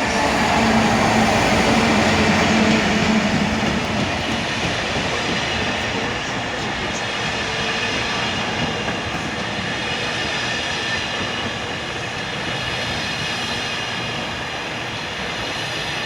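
GB Railfreight Class 66 diesel locomotive, with its two-stroke V12 engine, passing close by at the head of a freight train, loudest and with a steady engine drone in the first few seconds, then the steady rumble of the wagons rolling past.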